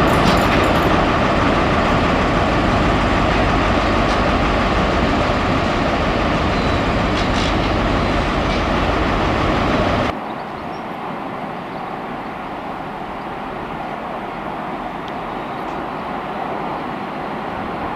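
A passing train, a loud steady rumble and rush with a few clicks. It cuts off abruptly about ten seconds in, leaving a quieter steady rumble.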